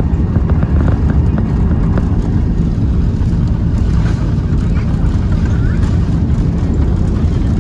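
Airbus A330 airliner's jet engines during a rain takeoff, a loud, steady low rumble with no let-up, with a few short clicks in the first second or two.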